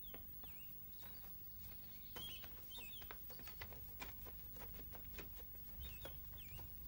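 A small bird chirping now and then with short swooping calls, over faint irregular footsteps of people walking on grass.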